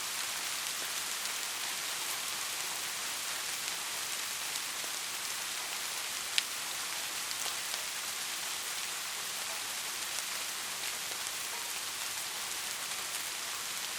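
Steady rain falling, an even hiss with scattered drops pattering on a surface, and one sharper, louder drop about six seconds in.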